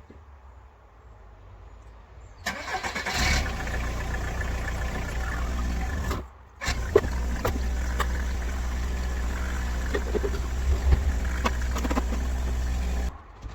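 Mk3 Golf diesel engine starting about two and a half seconds in, then running with a steady low drone. It briefly drops out about six seconds in and cuts off abruptly near the end.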